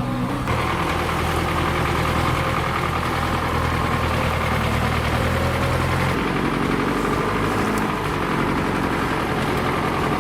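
Heavy diesel engine of a loaded logging truck running steadily under load, its engine note shifting lower about six seconds in.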